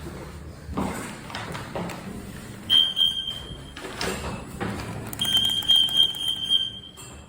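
TKE elevator's electronic chime: a steady high single-pitch tone sounds for about a second near three seconds in, then again for nearly two seconds from about five seconds in. Knocks and thuds come in between.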